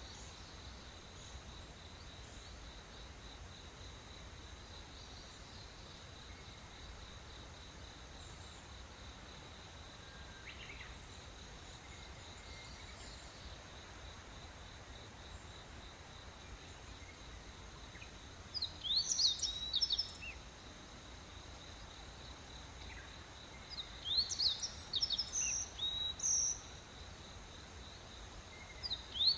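Tropical rainforest morning ambience: insects keep up a steady high-pitched buzz throughout. A bird sings bursts of quick, rising and falling notes about two-thirds of the way in, again a few seconds later, and at the very end.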